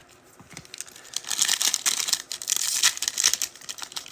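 Foil trading-card pack wrappers being torn open and crinkled by hand; the crinkling starts about a second in.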